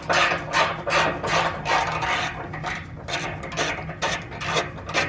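Hand ratchet wrench working a 15 mm exhaust clamp nut loose, in repeated rasping strokes about two or three a second.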